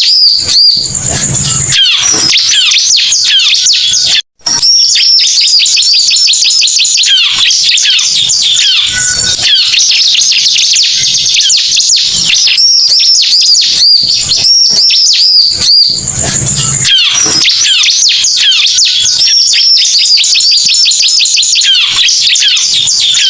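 Bar-winged prinia (ciblek) song played as a bird-lure recording: loud, rapid, high chirping and trilling with no pause, apart from a brief cut-out about four seconds in.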